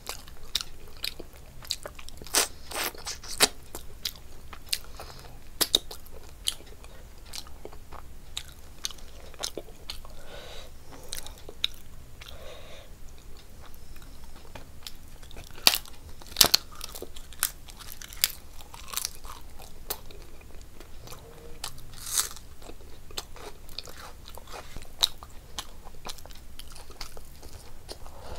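A person chewing and biting food, with frequent sharp crunches and wet mouth clicks. The loudest crunches come about 2 seconds in, around the middle and later on, with a quieter stretch in between.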